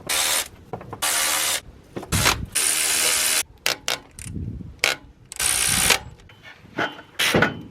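Ratchet wrench clicking in about eight short runs with brief pauses between them, as bolts on an exhaust manifold are loosened.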